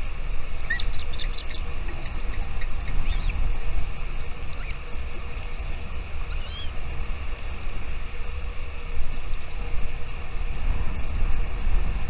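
Small bird chirping: a quick run of high chirps about a second in, then a few single calls spaced a second or two apart, the last one an arched, falling note. A steady low rumble runs underneath.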